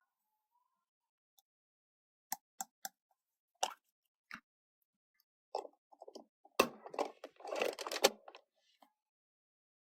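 Play-Doh and plastic toy moulds being handled: a few separate taps and clicks, then about three seconds of denser squishing and crackling with two sharper snaps in it.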